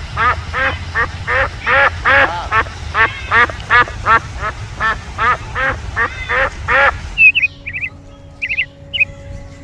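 Duck quacking in a quick, regular series of about three loud quacks a second. About seven seconds in the quacking stops and short, high chirping calls in pairs follow.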